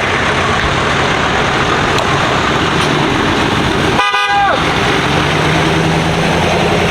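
Loud, steady vehicle noise with no clear pitch. After a brief cutout about four seconds in comes a short vehicle horn blast whose pitch sags as it ends, then a low steady engine drone.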